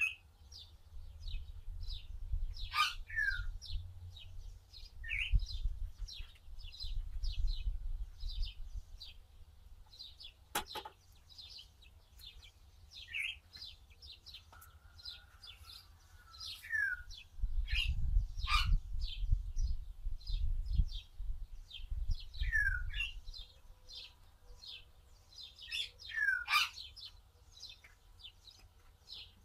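Small birds chirping repeatedly, with a louder falling call every few seconds. A low rumble comes and goes underneath, twice.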